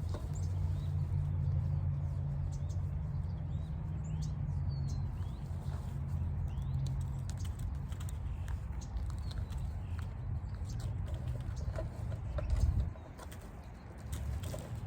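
Small birds chirping over a steady low hum, with scattered light clicks and rustles throughout. Near the end the low hum swells, then drops away for a moment before returning.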